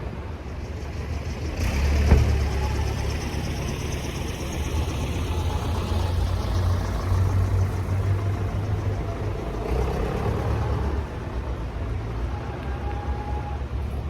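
A motor vehicle engine running close by, coming up louder about two seconds in and then holding a steady low rumble.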